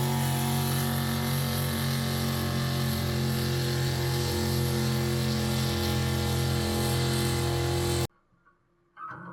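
A pulling vehicle's engine running hard at a steady pitch, loud and unchanging. It cuts off suddenly about eight seconds in, and a fainter, different sound starts near the end.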